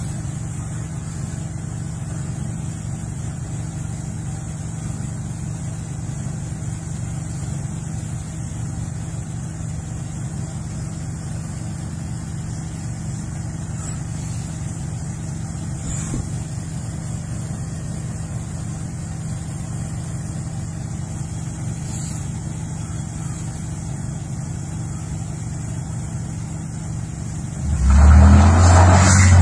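A car engine running with a steady low hum, then a sudden louder surge a second or so before the end as a vehicle accelerates close by.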